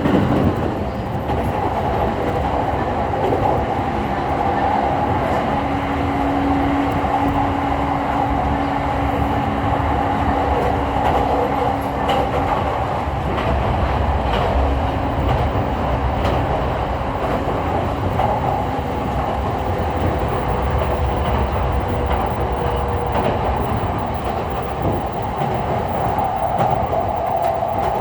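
JR East E231 series electric commuter train running steadily between stations, heard from inside the car: a continuous rumble of wheels on rails with light clicks over the rail joints. Faint steady tones from the traction equipment sit under the rumble for a few seconds at a time.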